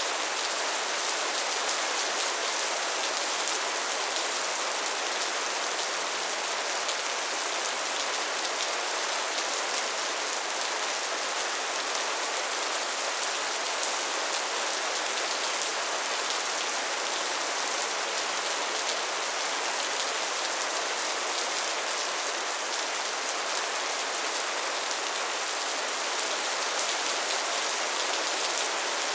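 Rain falling steadily on a tin roof: a dense, even hiss of countless small drop hits that does not let up.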